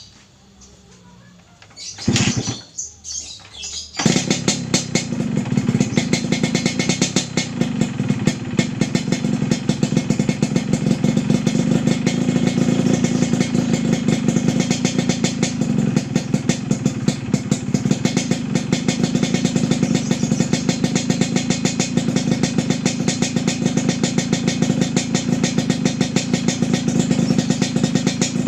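Yamaha RX-King two-stroke single-cylinder motorcycle engine fitted with a PDK Cobra chrome underbelly exhaust: a short burst about two seconds in, then the engine catches about four seconds in and runs steadily with a fast, crackly exhaust pulse.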